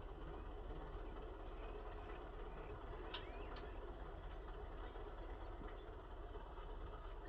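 Tractor engine running steadily at low, even revs, heard faintly. A couple of short high chirps come about three seconds in.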